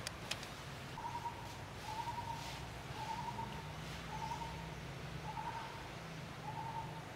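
A bird calling a short, even-pitched note over and over, about once a second, six times in all. A sharp click comes just after the start.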